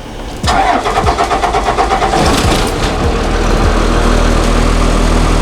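A bus engine is cranked by its starter on newly installed batteries. It catches after about two seconds of cranking and settles into a steady idle.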